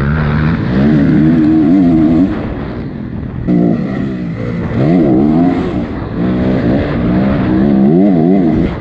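Honda CRF250 dirt bike engine revving hard on a motocross track, its pitch climbing and dropping again and again as the throttle is opened and shut through the track's jumps and corners, over wind and track rumble.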